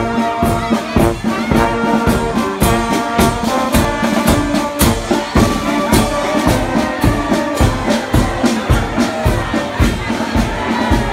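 Brass band playing a tune over a steady drum beat, about three beats a second.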